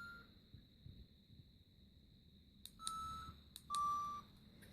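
The Luma Comfort HC12W humidifier's control panel beeps as the mist output setting is changed: a click then a short beep, twice, each beep slightly lower in pitch than the one before and the second the louder. A faint steady high tone runs underneath.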